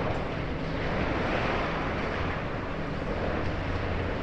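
Demolition excavator's diesel engine running steadily under load as its jaw cuts through a concrete building, with a steady rushing noise over it.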